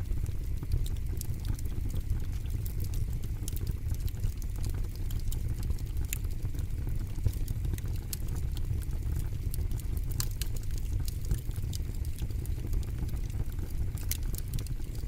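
Wood fire in a fire pit crackling, with frequent irregular small pops and a few louder snaps over a steady low rumble.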